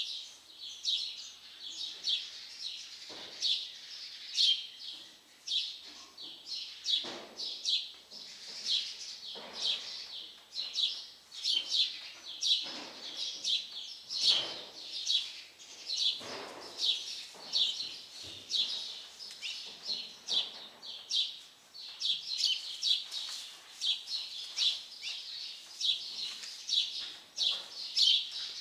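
Small birds chirping rapidly and without a break, several short high chirps a second, with occasional soft rustles and knocks beneath them.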